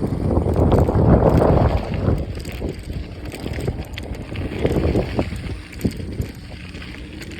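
Wind buffeting the microphone during a mountain bike ride, with the rolling and rattling of the bike over the trail and scattered short knocks from bumps. The wind rumble is loudest in the first two seconds.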